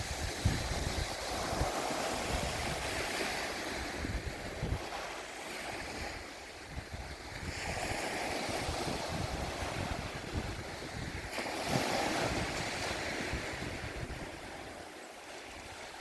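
Sea waves washing onto a rocky shore, the surf swelling and easing every few seconds, with wind buffeting the microphone.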